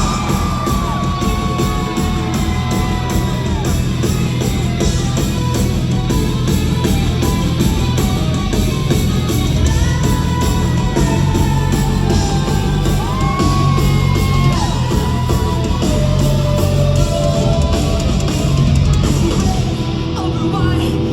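Live rock band playing loudly, heard from the audience in a large hall: a dense wall of drums and guitar with yelled vocals.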